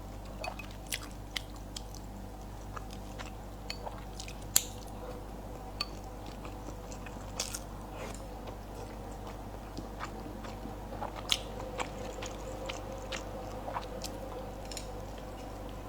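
Close-miked mouth sounds of eating: chewing, with irregular sharp wet clicks and smacks, over a steady low hum.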